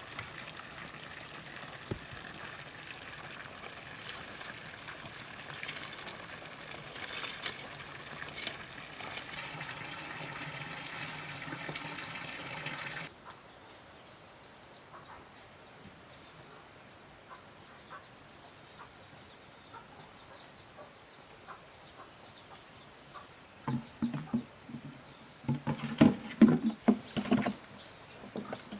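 Water running or splashing steadily for about the first half, cutting off suddenly. Then a quiet stretch with a few faint ticks, and near the end a run of loud, irregular knocks.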